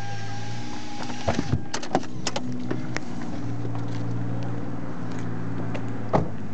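A steady low mechanical hum with a higher tone that stops about a second and a half in, and scattered clicks and knocks, the loudest about six seconds in.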